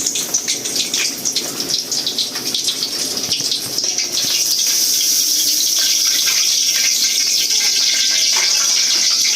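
Pork belly deep-frying in hot oil: a crackling sizzle that builds into a steady, loud hiss about four seconds in.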